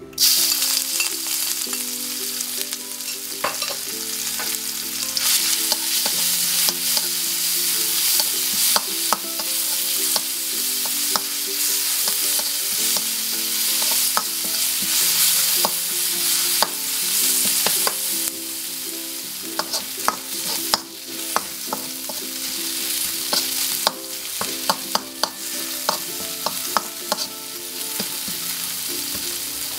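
Chopped chili, garlic and shallot sizzling in hot oil in a metal wok. The sizzle starts abruptly as the mixture goes in, and a metal spoon scrapes and clinks against the pan as it is stirred.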